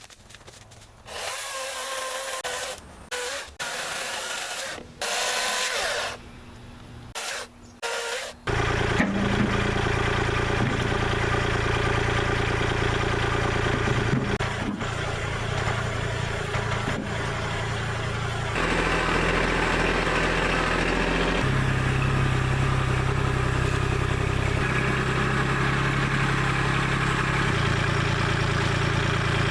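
Greenworks battery chainsaw whining in several short bursts for the first eight seconds. Then the Kubota L2501 tractor's three-cylinder diesel engine starts running steadily, its pitch shifting up twice as the revs change.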